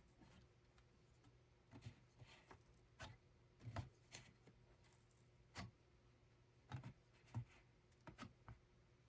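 Faint, irregular clicks and light taps, about ten spread unevenly over several seconds, against quiet room tone.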